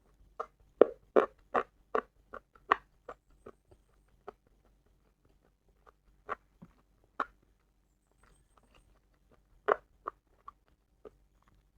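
Close-miked mouth sounds of someone chewing food: a run of short, wet smacks and clicks, about three a second for the first three seconds, then scattered ones, with a louder pair near the end.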